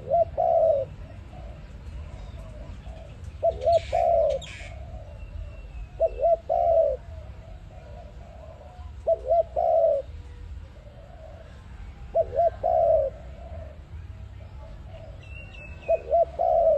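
A spotted dove (tekukur) cooing, repeating the same phrase about every three seconds, six times: two quick low notes and then a longer cooing note. Faint high chirps from another bird come about four seconds in and near the end.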